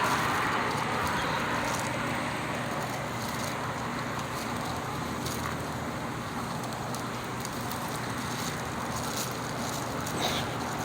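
Steady rushing background noise with a faint low hum.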